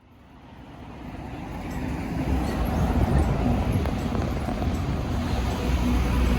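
Moped on the move: a low engine and road rumble with a faint steady hum, fading in over the first couple of seconds and then holding steady.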